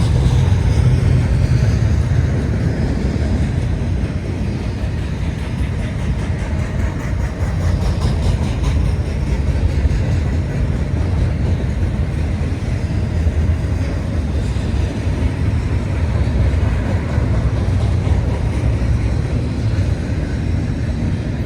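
CSX intermodal freight train rolling past: a steady, loud rumble of steel wheels on rail.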